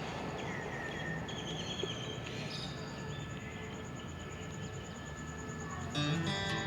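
Outdoor ambience: a steady low rumble with a few short high chirps and a steady high pulsing trill. Guitar music starts near the end.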